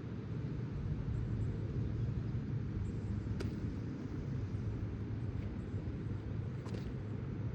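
Wind buffeting the microphone in a steady low rumble, with two faint clicks, one near the middle and one near the end.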